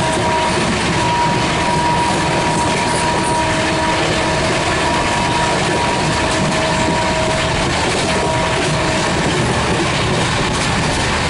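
Express passenger train hauled by a WAP7 electric locomotive running at speed: a steady loud rumble and clatter of wheels on rail. Two steady tones sound on and off through most of it and stop about nine seconds in.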